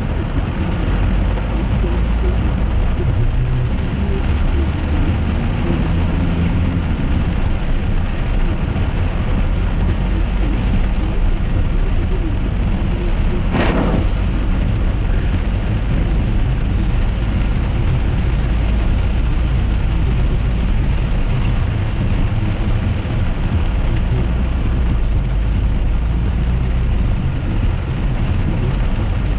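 Inside a moving car in rain: steady low road and engine rumble with rain on the car, and one sharp knock about halfway through.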